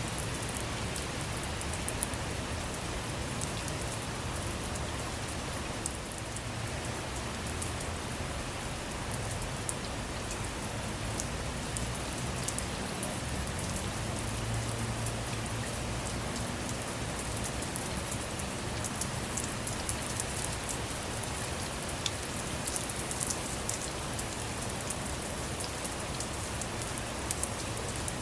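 Steady rain falling on a car, an even hiss with many scattered drop ticks.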